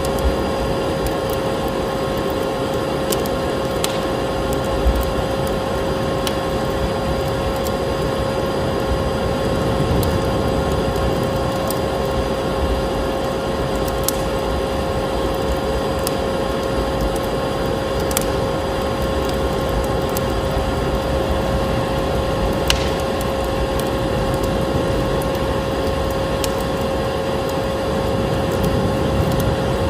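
Vacuum cleaner running steadily with a constant whine, mixed with a wood fire crackling, giving off a sharp pop now and then.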